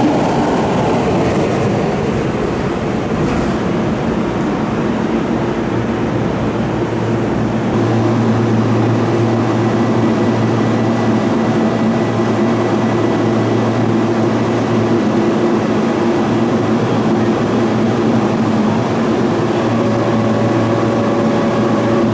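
A Keihan electric train standing at the station platform, its underfloor electrical equipment humming steadily with several steady tones.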